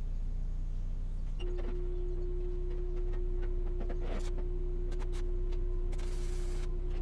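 Electric motor running steadily with a low hum; a steady higher tone joins in about a second and a half in, with a few light clicks.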